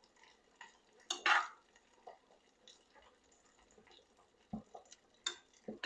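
A spoon stirring in a cooking pot, knocking and scraping against it: a louder clatter about a second in, then a few separate knocks near the end.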